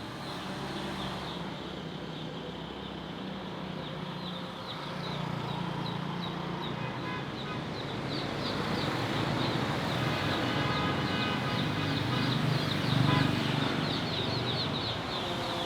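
Many newly hatched chicks peeping, their rapid high chirps growing thicker and louder through the second half, over a low steady hum.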